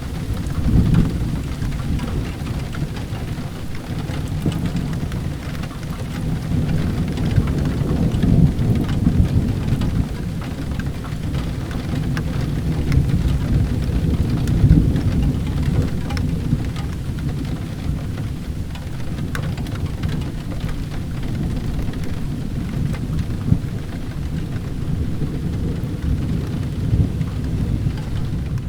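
Steady rain with a low rumble of thunder underneath, swelling a little now and then, and scattered faint clicks of drops.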